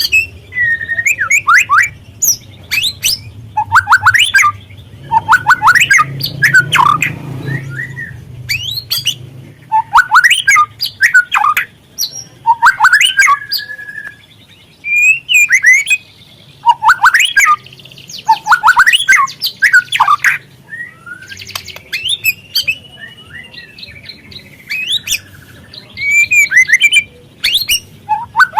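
Juvenile white-rumped shama (murai batu trotol) calling in short bursts of rapid, sharp chattering notes, with a few longer whistled notes between them.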